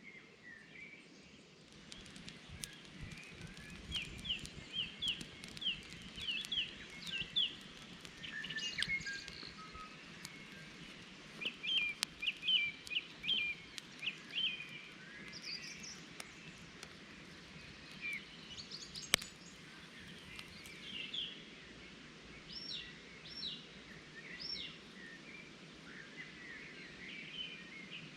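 Small birds singing, with runs of quick, evenly spaced chirps and short calls over a faint steady background noise. There is a single sharp click about nineteen seconds in.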